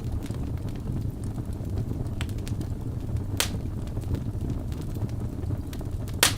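Birch logs burning in a fireplace: a steady low rumble of flame with scattered small crackles, and two sharp loud pops, about three and a half seconds in and again near the end, the second the loudest.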